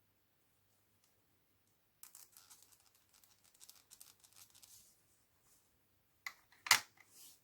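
Small plastic LEGO parts and a tool being handled at close range. A run of faint light clicks and scratches is followed near the end by two sharp clicks, the second the loudest.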